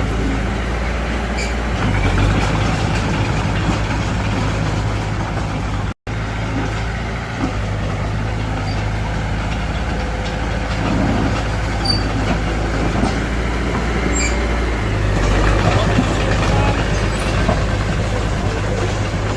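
Diesel engine of a Mitsubishi BD2F bulldozer running steadily under work. The sound cuts out for an instant about six seconds in.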